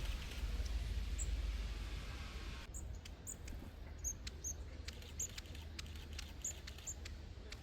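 Small birds giving short, high, thin chirps, about a dozen from roughly three seconds in, over a low rumble and a few light clicks.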